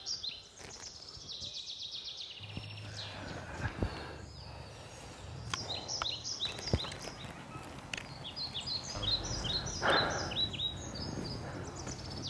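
Outdoor ambience of birds chirping in repeated series of quick high notes, with a low steady background hum. A couple of sharp clicks come in the middle, and a brief rustle near the end is the loudest moment.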